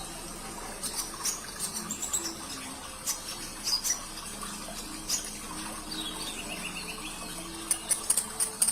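Kolibri ninja sunbird calling in short, sharp high chirps, some dropping quickly in pitch, over steadily trickling water. Near the end a fast, high rattling trill begins.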